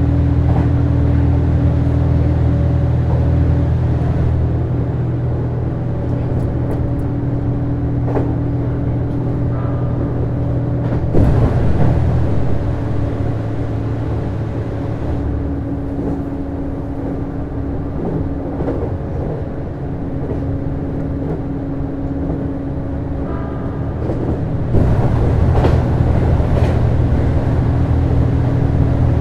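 Running sound inside a JR East HB-E210 series diesel-hybrid railcar under way: a steady low hum from its engine and traction equipment, with the wheels rumbling on the rails. The noise swells briefly about eleven seconds in and grows louder and brighter for the last few seconds.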